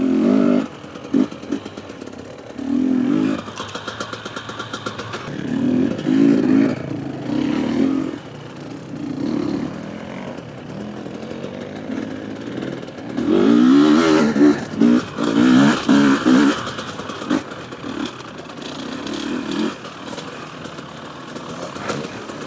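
Husqvarna TE250 enduro motorcycle being ridden over rough off-road ground, its engine revving up and dropping back in repeated bursts as the throttle is opened and closed. The longest and loudest run of revving is about two-thirds of the way through.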